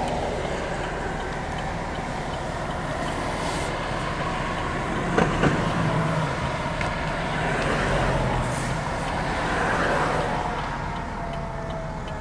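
Fire engine driving on a call: steady engine and road noise. Two sharp knocks come about five seconds in, and a tone rises and falls a few seconds later.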